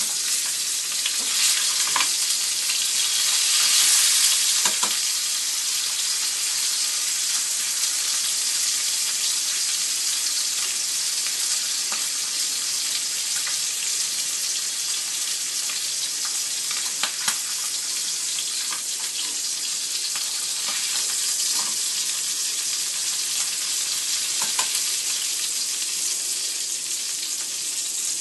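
Korean abalone pan-frying in hot oil in a small frying pan: a steady sizzle with occasional sharp pops, louder for a few seconds near the start.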